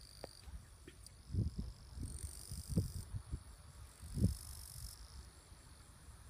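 Wind gusting against the microphone in low puffs, strongest about one and a half, three and four seconds in, over a high, steady trilling of insects that starts and stops in stretches.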